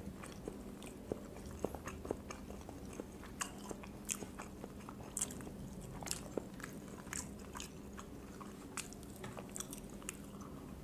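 Faint chewing and biting as boiled quail eggs are eaten fast, with many small irregular mouth clicks and smacks over a low steady hum.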